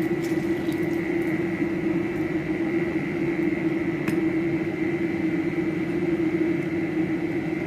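Steady machine hum, with a low tone and a fainter high whine over it, and a single faint click about four seconds in.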